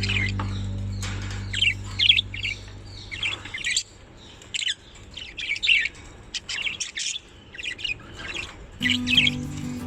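Budgerigars chirping in many short, quick bursts of high calls. Background music fades out in the first few seconds and comes back near the end.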